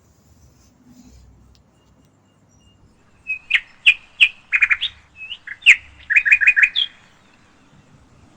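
A bird chirping: a burst of loud, sharp chirps starts about three seconds in and lasts roughly three and a half seconds, ending in a quick run of four or five notes.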